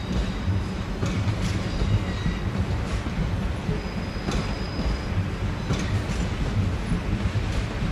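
Siemens Desiro electric multiple unit running slowly over pointwork, with a steady low rumble and wheels clicking over rail joints and crossings. High thin wheel squeals sound near the start and again about four seconds in.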